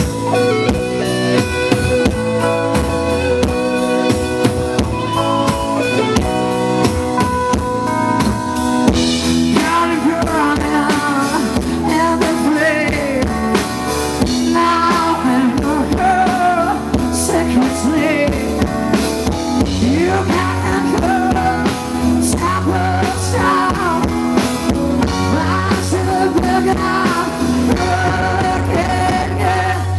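Live rock band playing: drum kit keeping a steady beat under bass, guitar and keyboards. From about nine seconds in, a bending lead line rises over the band.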